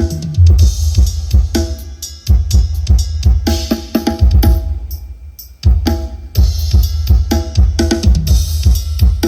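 Drum-heavy music with deep, heavy bass played through a 10-inch subwoofer in a fourth-order bandpass box, the kick drum and bass line booming below the rest of the mix. The beat thins out briefly in the middle, then comes back in.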